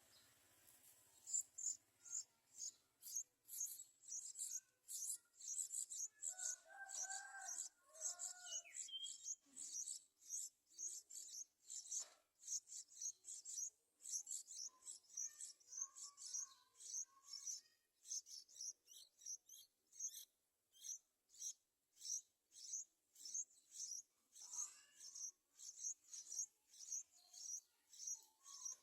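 Yellow-vented bulbul nestling calling to be fed: short, very high-pitched peeps repeated about twice a second, with a few lower warbled bird notes now and then.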